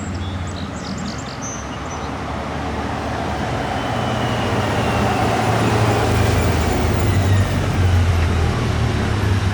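Heavy road vehicle's engine and tyre noise, a low hum under a broad rush, growing steadily louder as it approaches.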